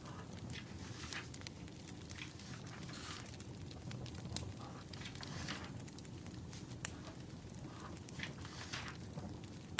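Wood fire crackling, with irregular sharp pops and snaps and short soft hisses over a steady low rumble.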